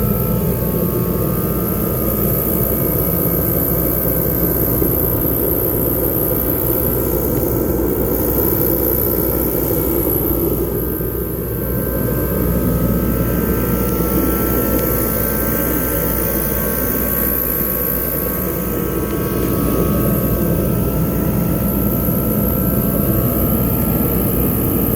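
DeWalt forced-air kerosene heater running: a steady rush of fan and burner with a few faint steady whining tones over it.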